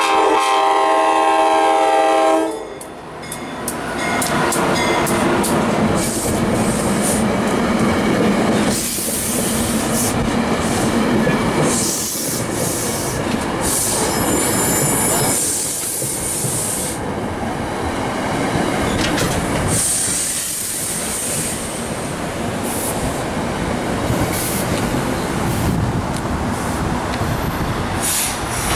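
A multi-note train horn chord sounds and cuts off about two and a half seconds in. An electric commuter train then passes close by with a loud rumble and rail clatter, the noise rising and falling several times.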